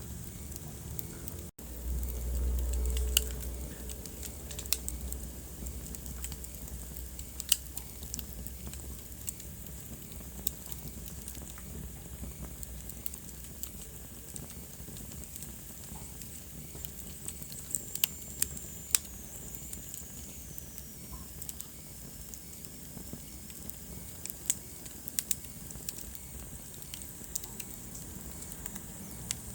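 Wood fire burning in a fireplace, crackling with sharp pops scattered irregularly over a soft hiss. A low rumble swells briefly about two seconds in, and a faint high whistle slides down in pitch about two-thirds of the way through.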